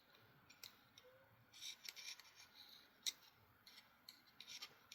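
Faint, scattered small clicks and light scraping of folding-knife parts and small tools being handled at a desk during reassembly, with a slightly sharper click about three seconds in.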